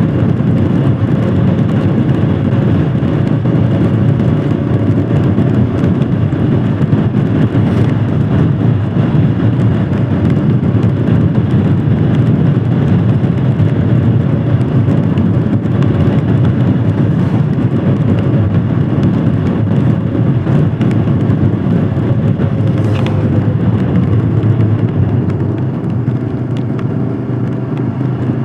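Royal Enfield Himalayan Scram 411's single-cylinder engine running under way, under a steady rush of wind and wet-road noise. The engine note drops and the sound eases slightly near the end as the bike slows.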